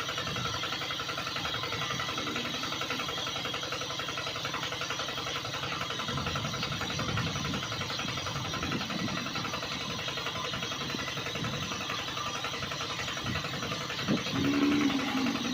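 Small motor running steadily with a fast, even buzz, and a brief louder tone near the end.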